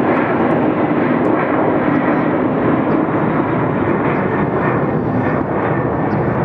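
Jet engines of a McDonnell Douglas MD-11F freighter at takeoff power, a loud, steady rush as it takes off.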